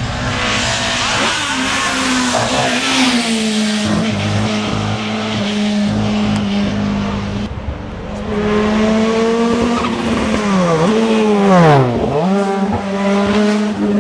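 Hill climb race car engine running at high revs. The engine note holds fairly steady, then dips sharply twice near the end and climbs again.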